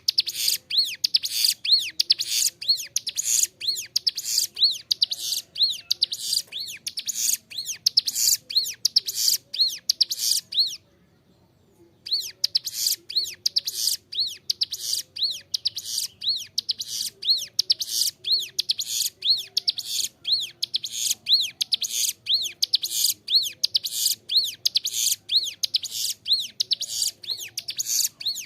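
Ciblek gunung, a small prinia, singing nonstop: a rapid run of high, arched whistled notes about two a second laced with scratchy chips. About eleven seconds in it breaks off for a second and a half of silence, then starts again.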